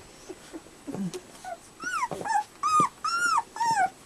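Fifteen-day-old puppies whining while nursing: a run of about five or six high, arching cries, each rising then falling, starting about a second and a half in.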